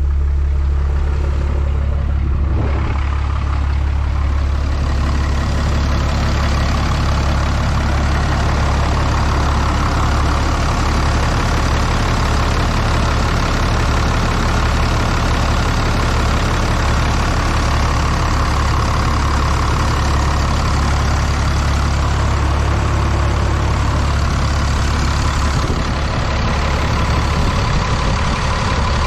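6.7L Cummins turbo-diesel idling steadily soon after a cold start, still warming up, with a higher steady whine filling in after several seconds. The engine is on its factory injectors at about 859,000 miles, which the owner suspects are going bad.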